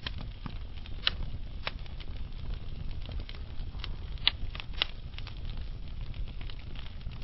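Wood fire burning slowly in a fireplace: a low, steady rumble of flames with scattered sharp crackles and pops from the burning logs, the loudest pops a little after four seconds and again near five.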